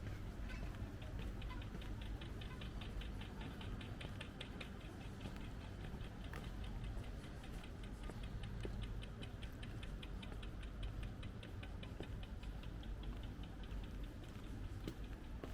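Rapid, even ticking, several ticks a second, over a steady low street rumble.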